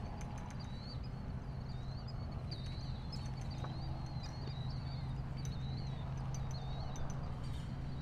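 Harbour-side outdoor ambience: a steady low hum and rumble, as of a distant boat engine or city, under a continuous twitter of many small bird chirps.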